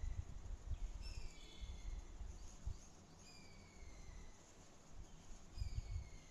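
A bird calling faintly three times, each call a downward-sliding whistle lasting about a second, over low, uneven rumbling thumps.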